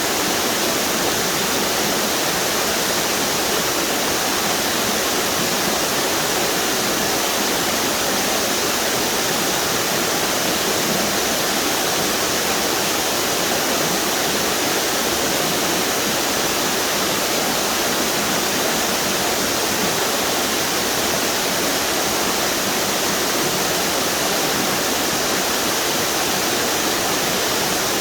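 Waterfalls on a river pouring over rock ledges: a steady, even rush of falling water with no breaks.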